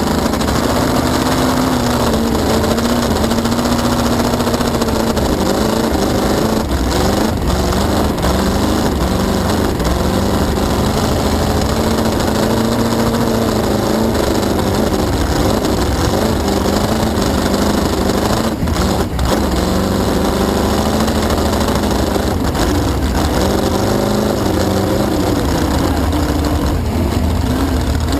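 Cracker box race boat's inboard engine running hard at speed, its pitch rising and falling with throttle, under a steady rushing noise.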